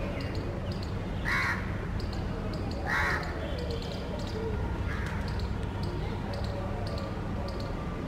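Harsh bird calls: two loud, short ones about one and three seconds in, and a fainter one about five seconds in, over a steady background hum and faint rapid ticking.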